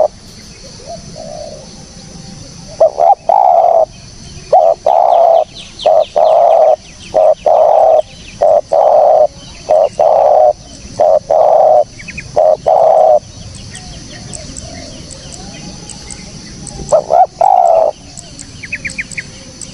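Spotted dove (tekukur) cooing: a run of paired coos, a short note then a longer one, repeated about once a second for some ten seconds, then one more coo phrase near the end. Faint high chirps of small birds are in the background.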